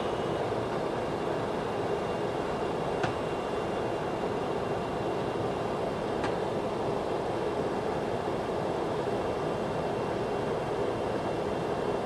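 Steady rush of airflow and engine noise on the flight deck of a Boeing 737-200 in descent, with two faint clicks about 3 and 6 seconds in.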